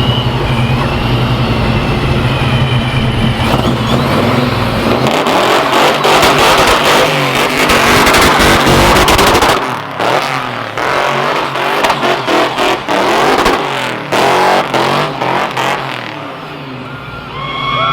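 Car engine at high revs during a burnout, with the noisy roar of spinning tyres. The engine drones steadily for a few seconds, then the roar builds to its loudest about halfway through. After that it breaks into choppy rev bursts that fade near the end.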